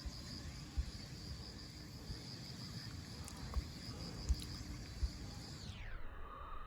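Insect trilling steadily at a high pitch over faint outdoor background noise, with a few soft low thumps.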